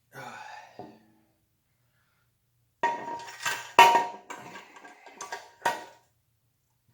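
Small steel parts clinking and tapping together, with several sharp metallic strikes that ring briefly, as a bicycle fork's bearing race ring and headset parts are handled and fitted. The clinks come in a cluster from about three to six seconds in, the loudest near four seconds.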